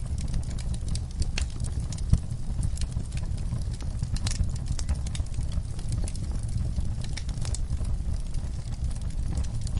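Fire in an outdoor fireplace crackling: irregular sharp pops and snaps over a steady low rumble, with one louder pop about two seconds in.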